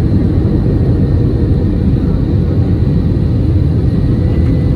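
Loud, steady, low rumble heard inside the cabin of an Airbus A321 airliner around landing.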